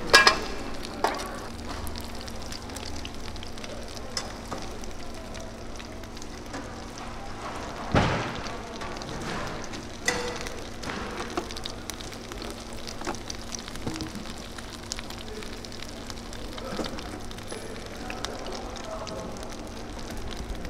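Egg-coated slices of squid sundae frying in oil in a pan: a steady sizzle with small crackles. A metal spoon knocks against the pan a few times, the loudest about eight seconds in.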